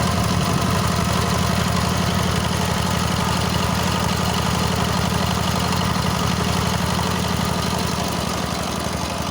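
Engine of the machine carrying the rotary mower running steadily with an even firing beat, the mower's drive belt taken off so the mower is not driven. It fades slightly near the end.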